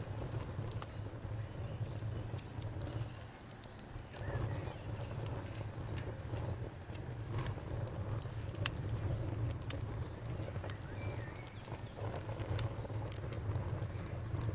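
Wood campfire crackling, with scattered sharp pops over a steady low rumble of burning. A rapid high insect trill runs through roughly the first half.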